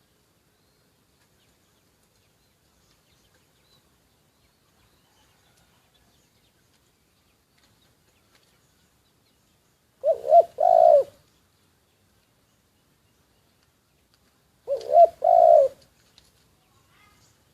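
Spotted dove, kept as a decoy bird, cooing: two three-note phrases, two short coos and a longer one, about ten and fifteen seconds in.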